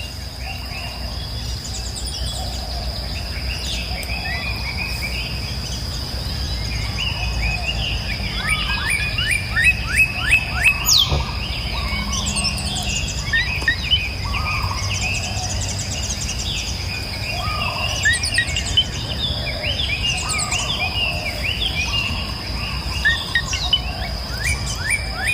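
Many small birds chirping and calling over one another, with quick runs of repeated chirps around ten seconds in and near the end. A steady high-pitched tone and a low rumble run underneath.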